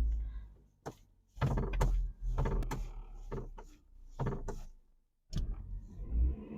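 A series of irregular clunks and knocks in a Hyundai Getz hatchback as the clutch pedal is pumped and the gear lever worked to find reverse. The clutch hydraulics bleed out, so the pedal has to be pumped to get any clutch.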